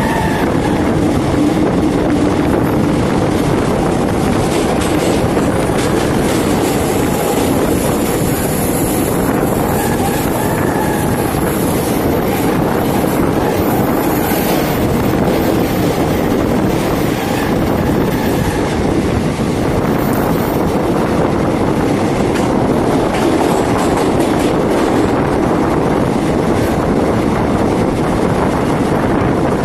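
Express train running through a tunnel, heard from an open coach doorway: a loud, steady rush and rumble of the wheels on the rails.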